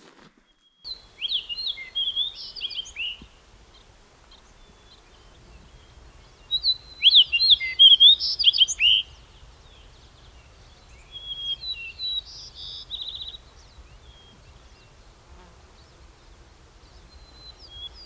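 A songbird singing: three warbled phrases of quick chirps and slurred notes, each two to three seconds long, coming a few seconds apart, with another phrase starting near the end.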